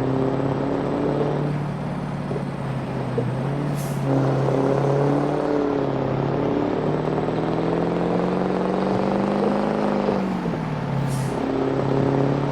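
Scania V8 truck engine with a straight-pipe exhaust running, its note climbing slowly for several seconds and then dropping back about ten seconds in. Two short, high hisses are heard, near four seconds and again near eleven.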